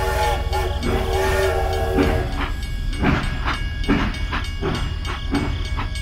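Toy steam locomotive's electronic train sounds: a steady multi-note whistle for about the first two seconds, then a rhythmic chuffing about two to three times a second, over a steady low hum.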